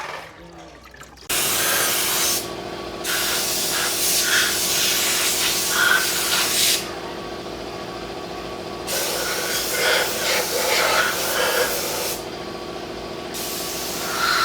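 Pressurised spray hissing in several long bursts, switched on and off abruptly, over a steady motor hum that starts about a second in.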